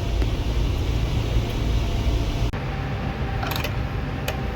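Freshly rebuilt bus diesel engine running with a steady low rumble on its first break-in drive. The sound changes abruptly about halfway through, and a few light clicks follow near the end.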